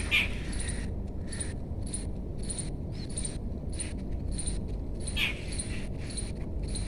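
Birds calling: a short high call repeated about twice a second, with a louder call near the start and another about five seconds in, over a steady low background rumble.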